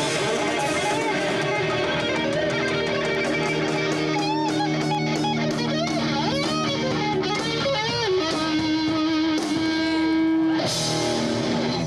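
A live rock band playing, with electric guitar to the fore: held notes and bent, wavering lead lines over sustained chords, and a loud crash near the end.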